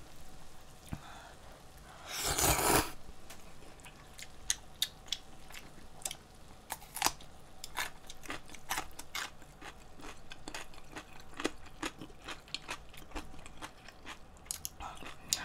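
A person eating with chopsticks from a small bowl: chewing and crunching, heard as many small sharp clicks and smacks scattered throughout. A brief louder rush of noise comes about two seconds in.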